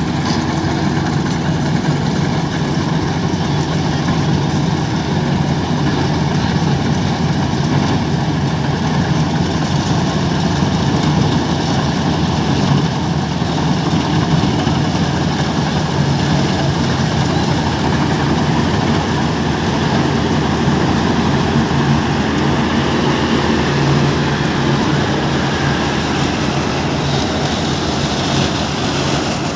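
Combine harvester working its way through a muddy, waterlogged paddy field, its diesel engine running loud and steady with no let-up.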